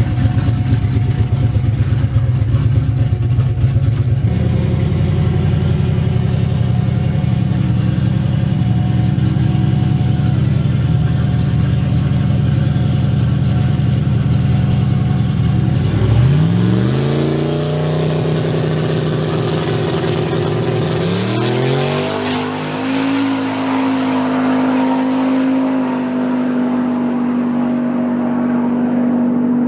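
Turbocharged drag-racing truck engine running steadily, then accelerating hard in two rising sweeps of revs about sixteen and twenty-one seconds in, a launch and a gear shift, before settling into a steady high-pitched drone.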